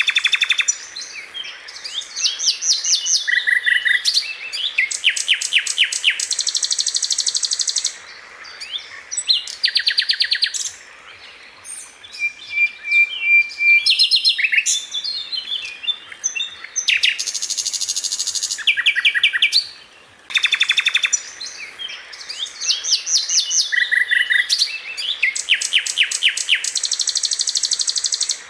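Sikatan Londo flycatcher singing: fast, tightly packed trills and rapid runs of repeated high notes in phrases a few seconds long, with short pauses between them and one brief steady whistle near the middle.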